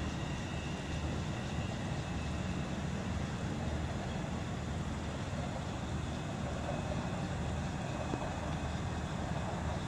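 Steady low rumble of a distant Long Island Rail Road passenger train, with a faint high ringing from the rails that fades out in the first couple of seconds.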